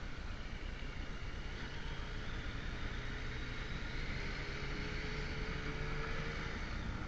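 Motorcycle engine running steadily on the move, under a constant rush of wind and road noise. Its pitch climbs slowly through the middle as the bike gains speed.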